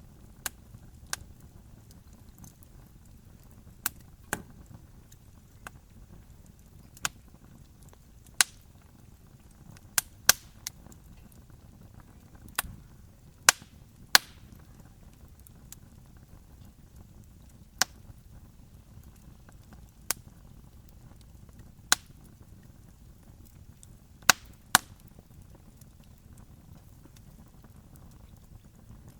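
Wood fire crackling: sharp, irregular pops and snaps every second or two over a faint low hiss.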